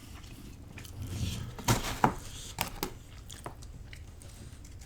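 A person chewing a mouthful of pizza close to the microphone, with several short sharp wet mouth clicks.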